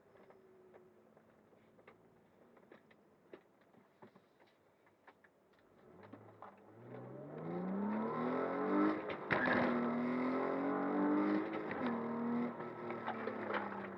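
Car exhaust with a Vibrant aftermarket system: faint ticking at first, then the exhaust note comes up about six seconds in, rising in pitch as the engine accelerates, holds loud and steady, and eases off near the end.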